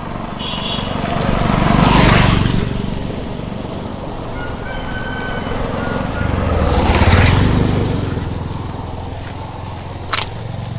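Two motor vehicles pass one after the other, each engine rising to a peak and fading away, the second about five seconds after the first. A sharp click comes near the end.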